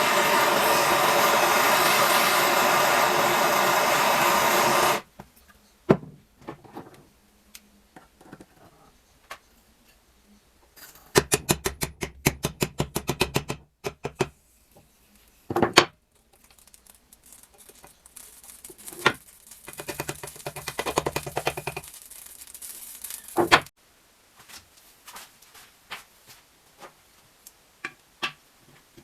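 Workshop tool noises during engine work: a loud steady blowing noise cuts off abruptly about five seconds in. It is followed by scattered knocks and clicks of tools on metal parts, including a fast run of clicks in the middle and a softer rubbing noise later.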